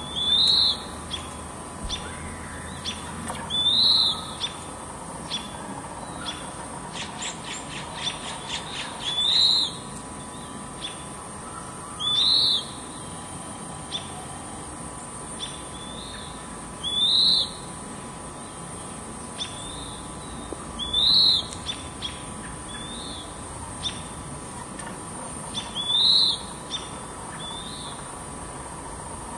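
A bird repeating a short, high call about seven times, every three to five seconds, with faint short chips between and a quick run of ticks about a quarter of the way in.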